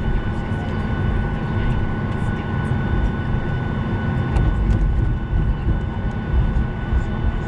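Boeing 737 cabin noise: a steady low rumble with a thin steady whine above it, and a few faint clicks.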